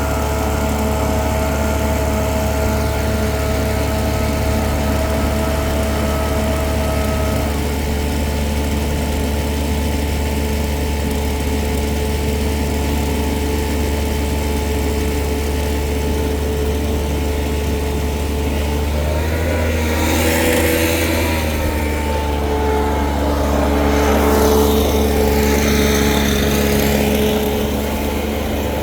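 Engine-driven leaf blower running steadily. It swells twice in the second half, with a louder rush of air as the engine note shifts.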